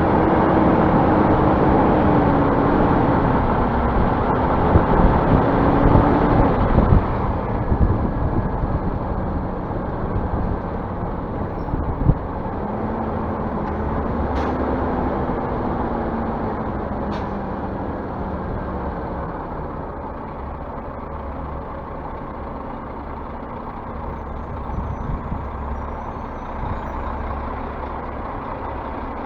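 Scania bus diesel engine running, its pitch rising and falling in two spells as it speeds up and slows, louder in the first several seconds. Two sharp clicks come around the middle.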